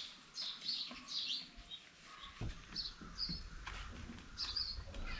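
Birds chirping, with short high calls repeating several times a second. A low rumble comes in about halfway through.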